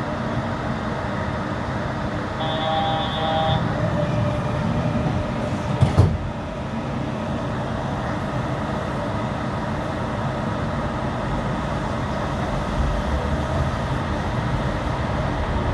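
Steady running noise of a Yurikamome rubber-tyred automated guideway train. A short electronic beep tone sounds about two and a half seconds in, and a single sharp knock comes about six seconds in.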